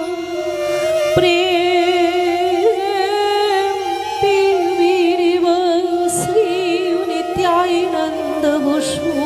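Live Manipuri classical dance music: a female vocalist sings a slow, ornamented melody over a sustained drone. A few sharp percussion strokes fall through it, two of them with a high ringing shimmer near the end.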